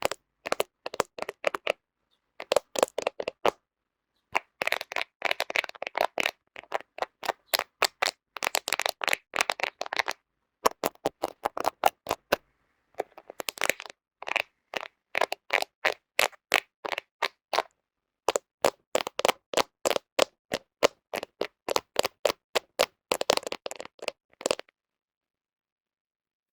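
Fingernails tapping quickly on a smartphone camera lens, in runs of sharp clicks with short pauses between; the tapping stops shortly before the end.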